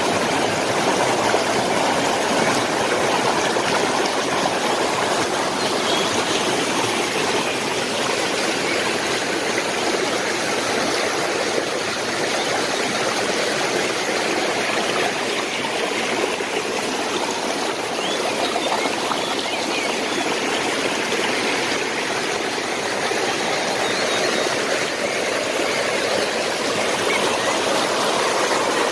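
Water of a stream flowing steadily, with faint bird chirps now and then.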